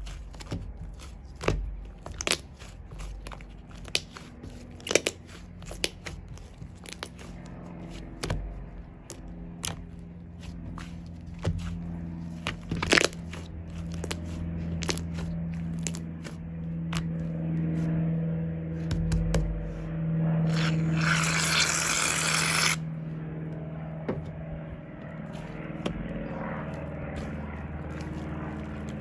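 Shaving foam being handled, with scraping and crackling clicks, and a hiss of about two seconds from an aerosol can of shaving foam spraying about twenty seconds in. A low steady hum runs underneath through the middle.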